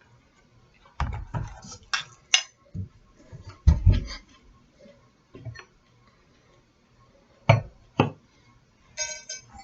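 Serving utensil knocking and scraping against a bowl and plate as noodles are served out of the bowl onto the plate: a run of separate clinks and clunks, two sharper knocks later on, and a short ringing clink near the end.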